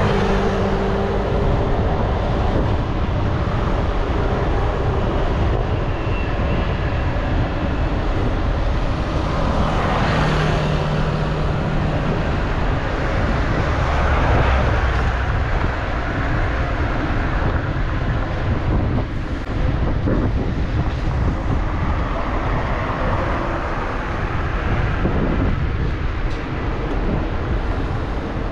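Steady road noise recorded on the move: wind rushing over the microphone, with engines of passing vehicles rising and fading, one clearest about ten seconds in.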